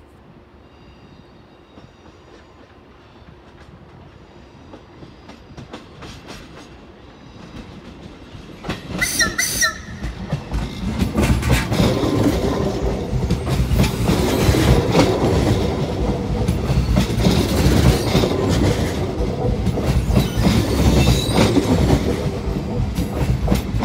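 A train coming in on the station tracks. It is faint at first and grows from about eight seconds in, with a brief high-pitched squeal. It then becomes a loud, steady rumble with the wheels clattering over the rails.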